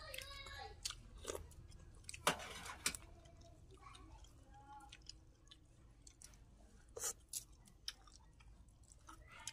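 People eating close to the microphone: chewing while picking chicken off the bone by hand, with scattered small clicks and a sharp click about two seconds in.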